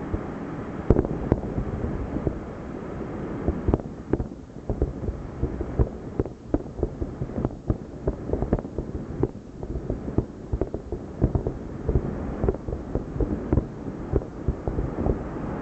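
Distant aerial fireworks: many shell bursts in quick, irregular succession, sharp cracks and booms over a continuous low rumble.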